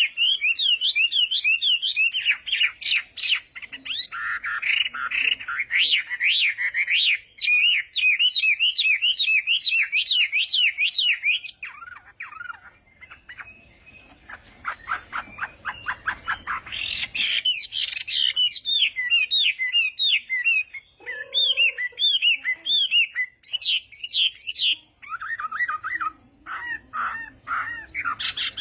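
Chinese hwamei singing a long, varied song of fast repeated whistled notes. About halfway through it drops to a softer rapid trill, then comes back at full strength with changing phrases.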